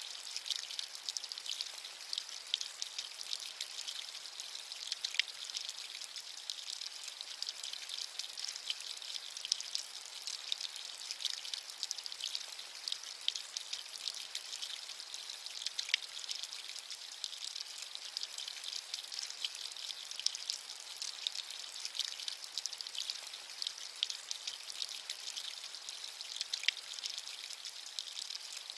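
Steady rain, a dense patter of fine raindrops, bright and hissy with almost no low rumble.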